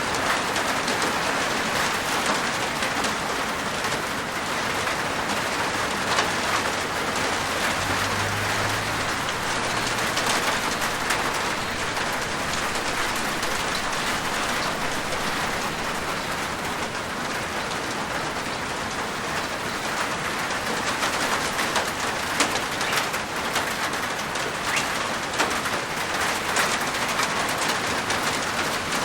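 Steady rain falling on a rooftop: a dense, even patter with scattered sharper drop hits.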